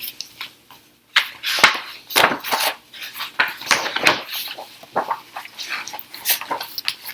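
Paper rustling with light taps and clicks, irregular, as a picture book is handled and its pages are turned.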